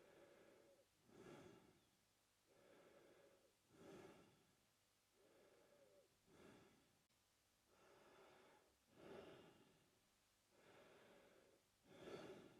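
A man breathing slowly and steadily through his mouth, faint, each in-breath and out-breath audible as a soft rush of air, about five breath cycles in turn.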